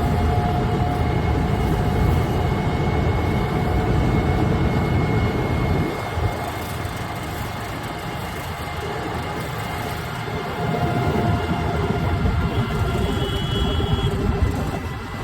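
Preet 987 combine harvester's diesel engine running as the machine drives along, a heavy low rumble that eases about six seconds in and builds again after about ten seconds.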